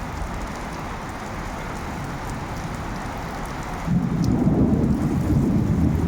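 Steady rain falling, with a low rumble of thunder breaking in about four seconds in and carrying on to the end.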